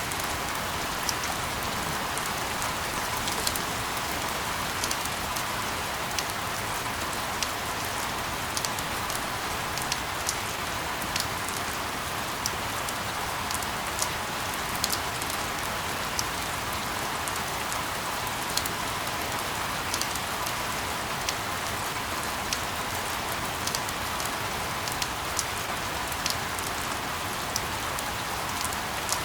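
Steady rain falling on a surface: an even hiss with scattered sharp drop ticks at irregular intervals.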